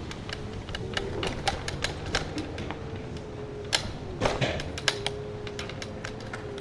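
Rental electric scooter being ridden: a steady motor whine under a run of rattling clicks and knocks as it rolls over bumpy pavement, with a couple of harder knocks about four seconds in.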